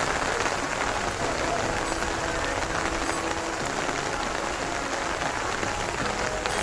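Heavy rain pouring down in a steady, even hiss, with faint voices mixed in.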